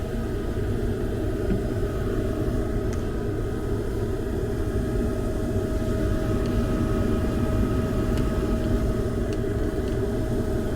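Trane 96% gas furnace running steadily: a low rush of blower air with a constant hum. The blower is working against about an inch of total static pressure, the sign of undersized ductwork.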